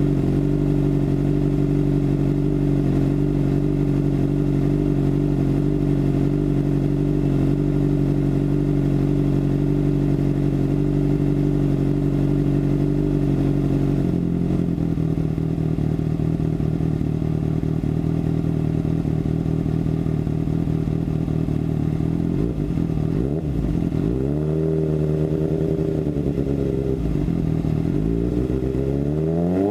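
2013 Kawasaki ZX-6R 636's inline-four engine running through a Racefit slip-on exhaust. It holds a steady idle that drops to a lower, more uneven idle about halfway through, then is revved a few times near the end, the pitch rising and falling each time.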